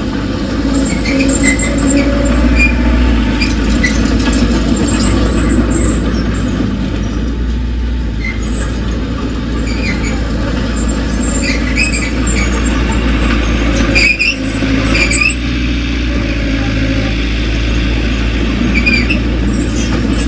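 Heavy diesel earthmoving machinery running steadily with a deep rumble, with short high squeals coming and going throughout and a brief drop in level about two-thirds of the way in.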